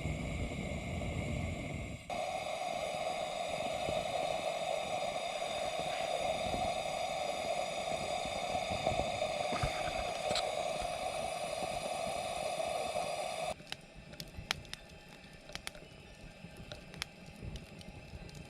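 A steady hiss with several steady high tones over it. About thirteen seconds in it cuts to a quieter campfire crackling, with scattered sharp pops.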